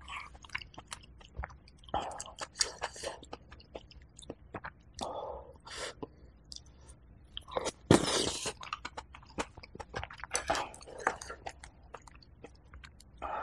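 Close-miked chewing of chicken porridge with crispy rice crust: wet mouth clicks and smacks in irregular runs, with a louder noisy burst about eight seconds in.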